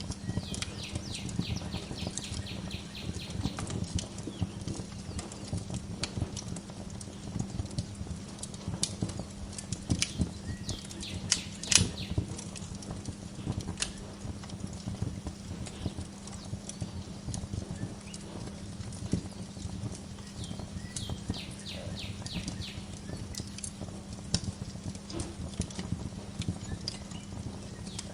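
Wood fire crackling and popping steadily in a fireplace, with one sharper pop a little before halfway, over a low steady hum. A small bird sings quick trilled phrases of rapid chirps three times: near the start, around ten seconds in, and about three quarters of the way through.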